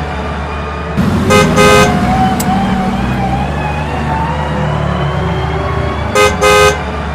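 A vehicle engine running steadily, with a horn giving a quick double toot about a second in and again near the end.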